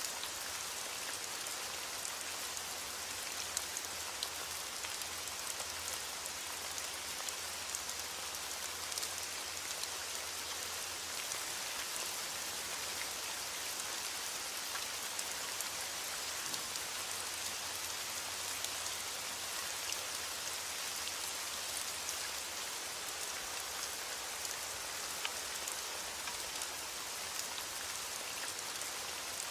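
Heavy rain on a window pane, a steady hiss with many small scattered ticks of drops striking.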